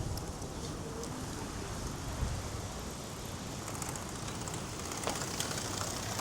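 Steady outdoor city street ambience with a low hum, broken by a few light clicks and taps in the second half.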